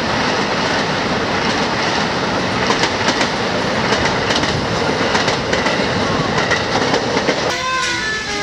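Electric commuter trains running along the tracks: a steady rumble, with the wheels clacking over rail joints from a couple of seconds in. About a second before the end it cuts off to a quieter indoor space with background music.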